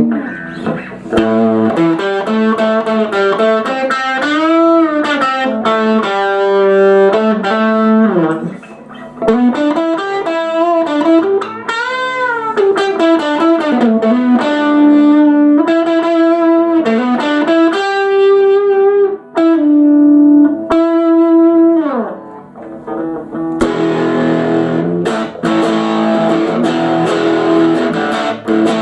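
1966 Fender Telecaster electric guitar played through an amp: single-note lead lines with many string bends, changing about 24 seconds in to fuller, noisier chords.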